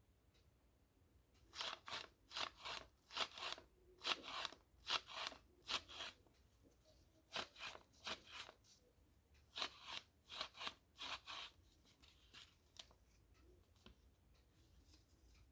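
A sheet of paper being worked by hand: a run of short, crisp paper sounds, two to three a second, coming in groups between about one and a half and thirteen seconds in.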